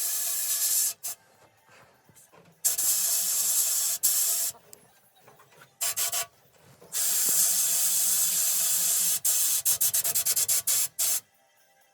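Harsh, hiss-like rubbing noise in several stretches, cutting out and in again, stuttering on and off rapidly near the end.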